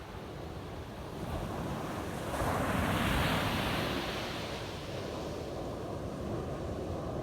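Ocean waves breaking on a beach: a steady low surf rumble with one wave cresting and washing in about two and a half seconds in, its hiss swelling and then fading. Wind buffets the microphone.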